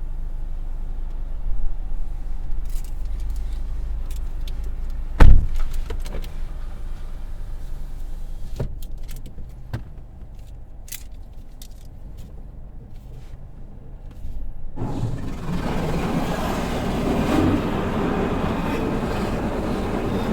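Automatic car wash heard from inside the car: a low steady hum with scattered knocks and clunks and one loud thump about five seconds in. About fifteen seconds in, a loud steady rush of the wash equipment starts suddenly.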